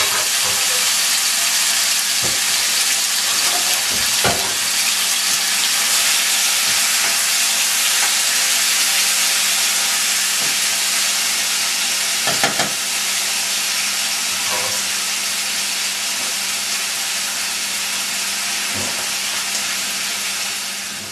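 Diced tomatoes sizzling in hot olive oil in a stainless steel saucepan: a loud, steady frying hiss that slowly eases, with a couple of brief knocks as the pan is stirred.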